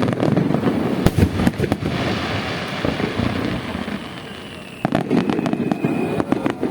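Fireworks bursting in a rapid barrage of bangs and crackles. A fresh volley of bursts comes in about five seconds in.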